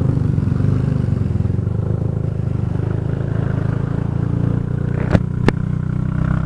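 Kymco Xciting 400i scooter's single-cylinder engine idling steadily, with two sharp clicks about five seconds in.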